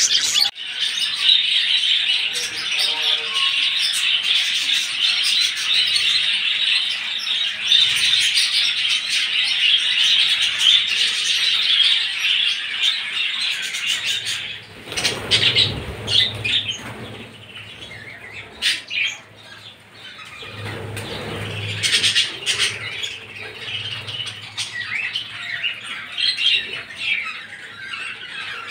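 A flock of budgerigars chattering and chirping without pause, with wings fluttering now and then; the chatter thins out about halfway through.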